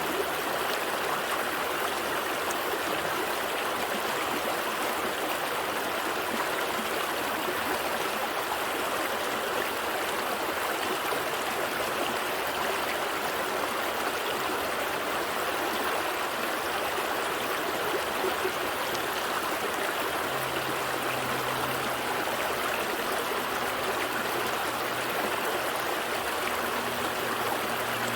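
Gentle stream flowing, a steady, even rush and trickle of water.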